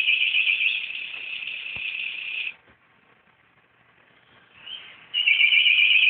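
High, rapidly trilling bird-like call. It stops abruptly about two and a half seconds in, and after a short quiet spell a brief chirp comes, then the trill starts again near the end.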